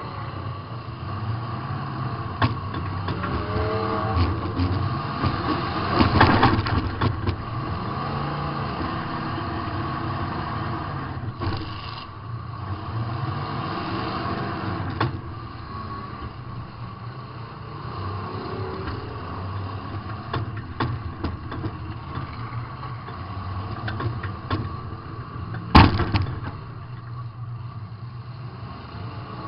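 Demolition derby car's engine revving up and down, heard from inside the car, with scattered knocks and crashes of hits. There is a cluster of impacts about six seconds in and one sharp, loud bang near the end.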